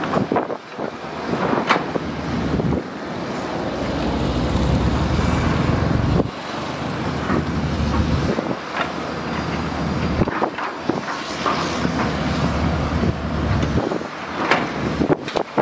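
Diesel engine of a heavy earthmoving machine working under load, with sharp metallic clanks and knocks scattered through it. The engine rises for a few seconds and drops suddenly about six seconds in. Wind buffets the microphone.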